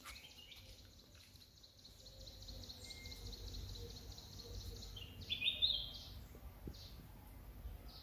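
Bird calling: a rapid, even trill of high notes for about five seconds, then a few louder chirps.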